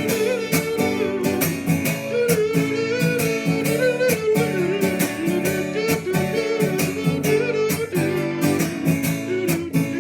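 Instrumental break in a recorded pop-rock song: an electric guitar solo with bending notes over a steady drum beat.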